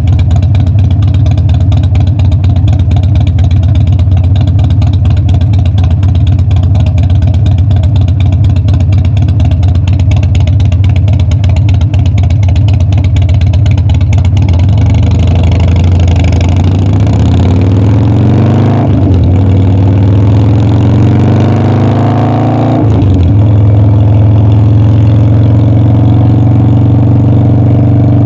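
Harley-Davidson Dyna's V-twin engine running steadily, then accelerating twice with the pitch climbing, each climb broken by a sudden drop as the bike shifts up a gear, before settling into a steady higher cruise.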